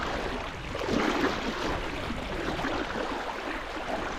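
Sea water washing steadily in the shallows, an even rushing noise.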